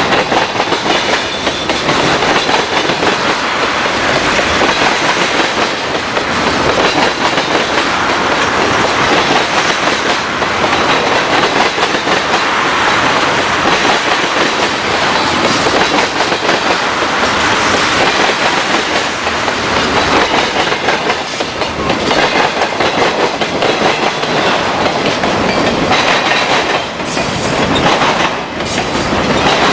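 Freight train cars rolling past, their wheels clattering steadily over the rail joints and the diamond crossing.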